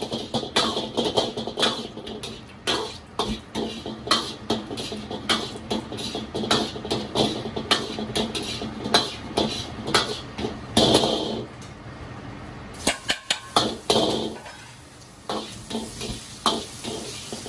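Metal cookware and utensils clanking and knocking irregularly, several strikes a second, as in frog legs being stir-fried in sauce. A brief louder rush comes about eleven seconds in, and there is a quieter spell a few seconds later.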